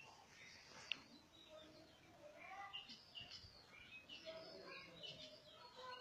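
Faint birds chirping in the background, with one short light click about a second in.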